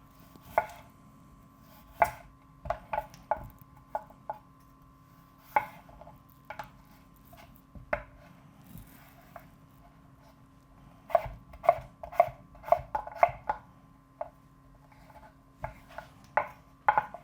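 Kitchen knife dicing raw potato on a cutting board: separate sharp knocks at uneven intervals, with a quicker run of cuts about eleven seconds in.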